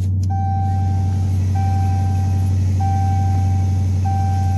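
Dodge Charger Daytona's V8 idling steadily while still cold. Over it a car warning chime sounds about once every second and a quarter, each tone held for about a second.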